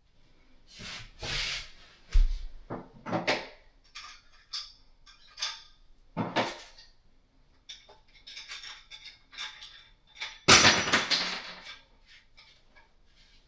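Plumbing parts and tools being handled: scattered knocks, clicks and rubbing, with one louder clatter lasting about a second, about ten seconds in.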